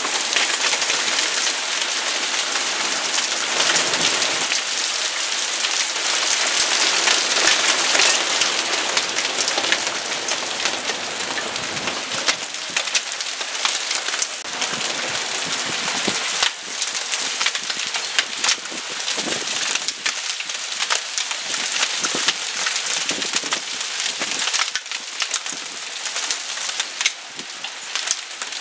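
Heavy rain mixed with hailstones pelting down: a dense steady hiss with many sharp individual hits, easing a little after about ten seconds.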